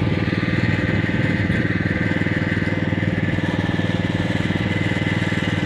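Small engine of a ride-on vehicle running steadily at an even speed.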